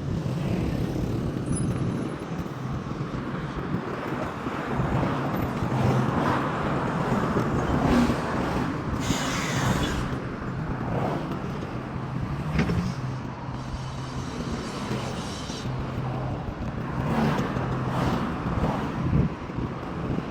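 Road traffic on a city street: cars and other vehicles passing steadily, with a brief hiss about nine seconds in and another around fourteen seconds.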